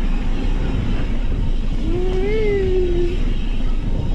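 Motorbike engine running steadily under the ride's rumble, with a small child's wordless voice, one drawn-out sound rising then falling, about two seconds in.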